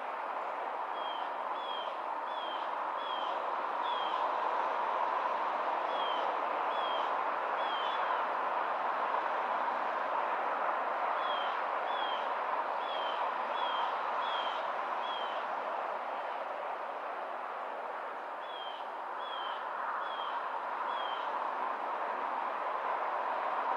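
A bird calling in four runs of short, falling chirps, over a steady background hiss.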